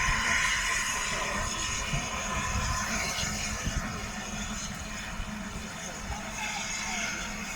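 Wind gusting, with an irregular rumble buffeting the microphone and a steady faint hum underneath. It is strongest in the first couple of seconds, then eases slightly.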